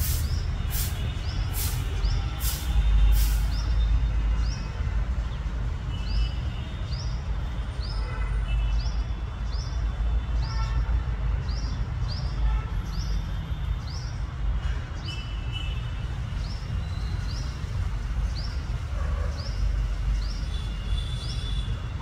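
Outdoor ambience with a steady low rumble of wind or distant traffic. Over it, a small bird gives a short rising chirp about every 0.7 seconds. A quick run of sharp high ticks, about two a second, stops a few seconds in.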